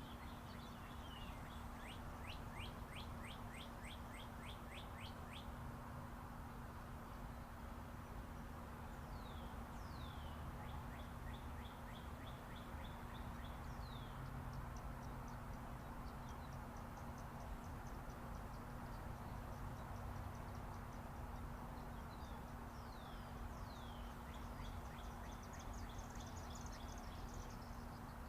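Songbirds chirping: sharp down-slurred chirps and runs of rapid trilled notes, coming in several bouts, over the steady distant hum of interstate highway traffic.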